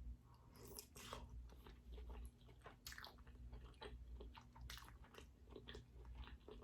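Faint close-up chewing and biting of king crab meat, a string of small irregular clicks and smacks from the mouth.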